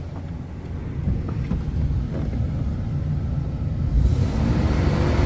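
Toyota 4Runner's 3.4-litre V6 (5VZ-FE) running with a steady low rumble while its cooling system is bled of air; about four seconds in, it gets louder as a rushing noise comes in over the rumble.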